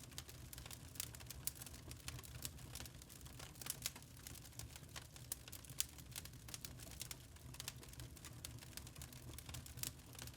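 Wood fire crackling in a fireplace: irregular small snaps and pops over a low steady rumble, with one louder pop about six seconds in.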